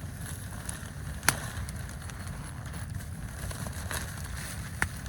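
Campfire giving two sharp pops, about a second in and again near the end, over a steady low rumble of wind.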